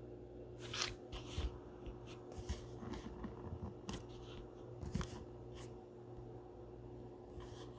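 Faint handling sounds: a few scattered clicks and rustles over a steady low hum.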